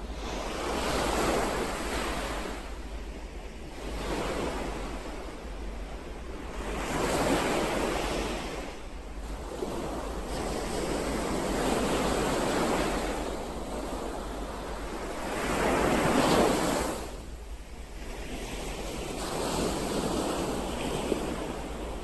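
Ocean waves breaking and washing ashore, surging and fading about six times, the loudest wave about 16 seconds in, over a steady low rumble.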